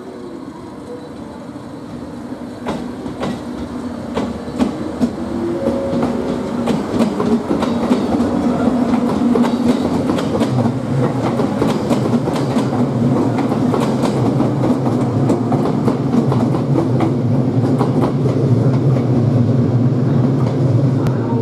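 A JR Kyushu 783-series electric limited-express train runs slowly past on the near track, its motors humming and its wheels clicking over the rail joints. It grows louder over the first several seconds as the cars come by, then holds steady.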